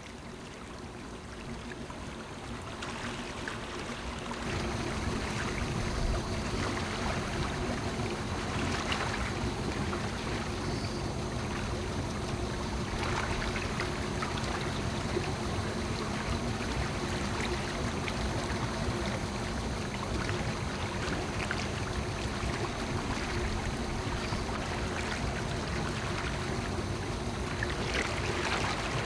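Boat motor running at slow trolling speed, a steady hum under the rush of water along the hull, growing louder over the first few seconds.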